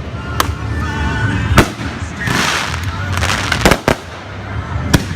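Fireworks going off: a series of sharp bangs, about five in all, with a hissing rush about two seconds in.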